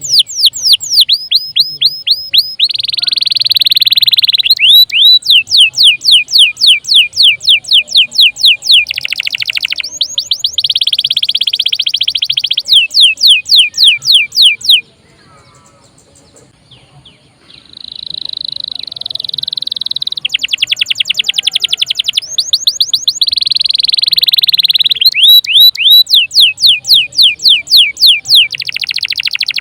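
Domestic canary singing loud, fast song: trills of rapidly repeated downward-sweeping notes alternating with dense buzzing rolls. The song breaks off for about two seconds halfway through, then resumes.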